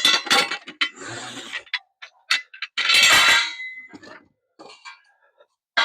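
Metal parts clanking and ringing as they are handled and set down, mixed with rustling, with a louder clatter about three seconds in.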